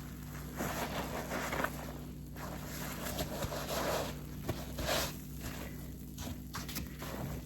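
A detergent-soaked waffle car-wash sponge being squeezed and wrung, giving a run of wet squishing, squelching bursts with a few sharp clicks; one of the louder squeezes comes about five seconds in.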